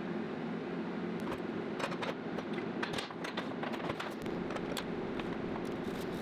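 TIG welder running while welding steel: a steady buzz with scattered sharp clicks.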